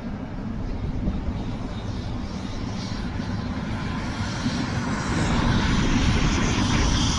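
Tour helicopters' turbine engines heard through the closed windows of a van, getting louder about five seconds in over the van's steady low road rumble.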